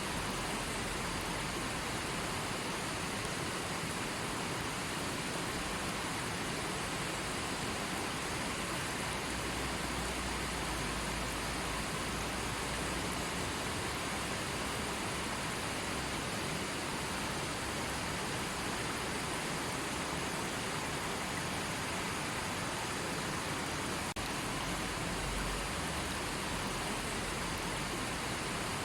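River water running, a steady even rushing with no breaks or distinct splashes.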